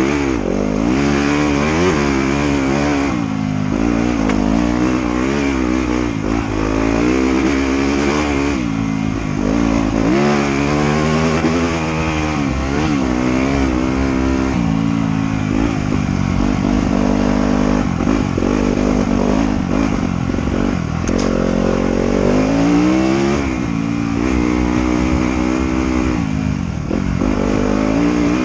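Trail motorcycle engine being ridden hard, revving up and down continuously, its pitch rising and falling every second or two as the throttle opens and closes.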